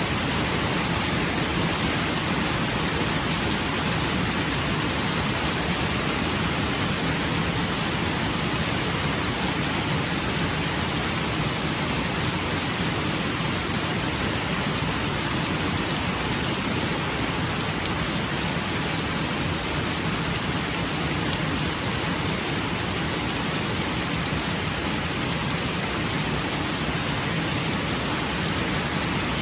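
Steady rainfall, an even hiss of rain hitting surfaces.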